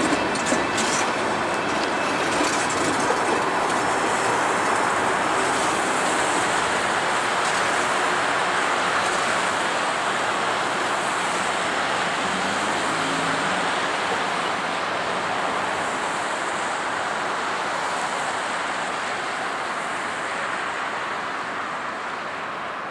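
Freight train's tank cars rolling past, with wheel clicks at first, then a steady rushing rumble that slowly fades as the end of the train goes by. Road traffic noise mixes in.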